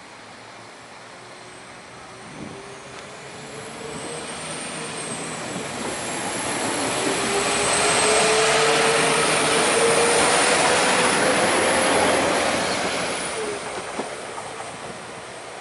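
A train passing on the line, growing louder over several seconds to its loudest around the middle and then fading away. A thin, high, wavering squeal from the wheels on the rails rides over the rumble of the train.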